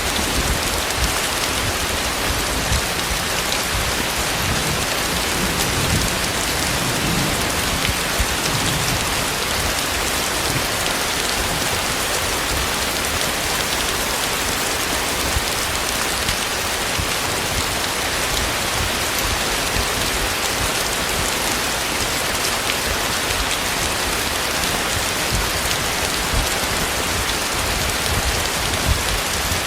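Heavy tropical rain pouring steadily, hitting surfaces close by, with small irregular low thumps among the hiss.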